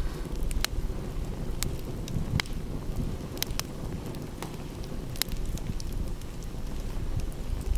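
Wood fire crackling, with about a dozen sharp pops scattered irregularly over a steady low rumble.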